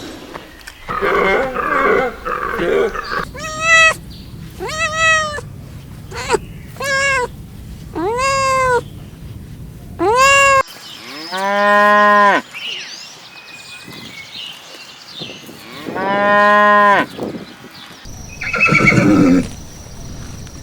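A run of farm-animal calls. Rough grunting comes first, then five short pitched calls that rise and fall, then two long, steady cow moos about four seconds apart, and a rough noisy call near the end.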